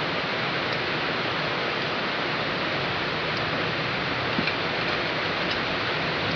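Heavy rain falling steadily, an even hiss, with a few faint ticks.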